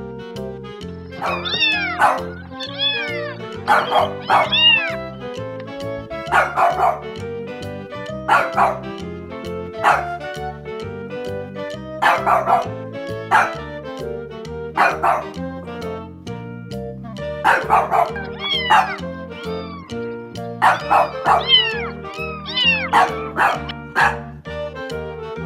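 Puppy yelping in short, high cries that rise and fall in pitch, coming in little clusters every second or two over background music with a steady beat.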